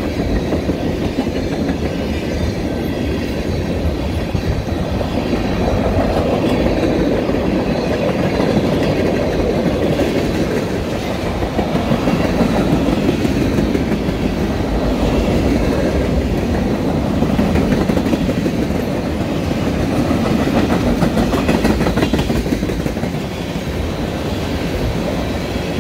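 Freight train of tank cars rolling steadily past, with a continuous rumble and the clickety-clack of steel wheels over the rail joints.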